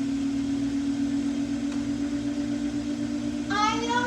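Samsung washing machine in its spin cycle, giving a steady motor hum.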